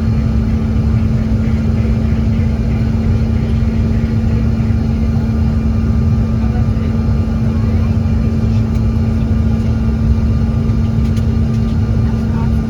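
A regional airliner's engine and airflow noise heard from inside the passenger cabin: a loud, steady rumble with a constant low hum, holding even throughout.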